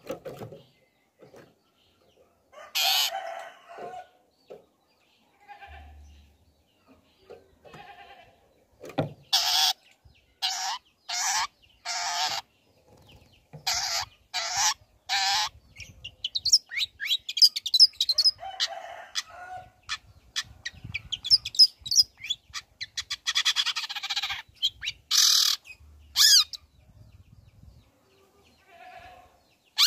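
Long-tailed shrike (cendet) singing: harsh, rasping calls about half a second long, six in quick succession around the middle, alternating with stretches of fast, high twittering.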